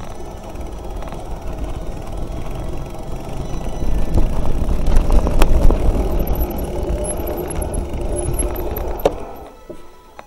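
Mountain bike riding down a rough trail: a rumble of tyres and rattling over rocks that builds, peaks about halfway through with a few sharp knocks, then cuts off about nine seconds in. A faint high squeal, likely from the brakes, runs under it near the end.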